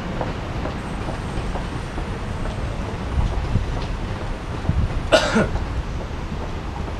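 Train running past: a steady low rumble with faint clicks, and a short burst of noise about five seconds in.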